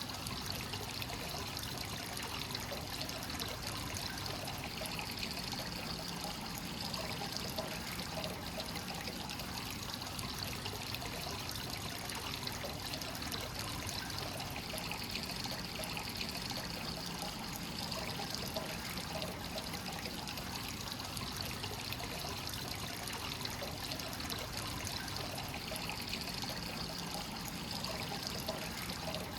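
Hot-spring water pouring steadily from the inflow into the bath and splashing and trickling on the surface: fresh source water flowing in continuously at a free-flowing onsen.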